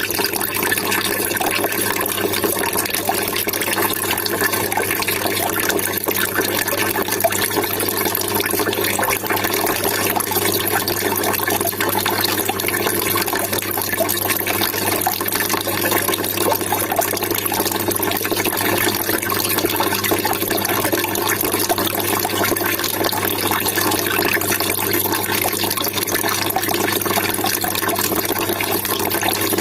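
Water trickling and splashing steadily without a break, with a low steady hum underneath.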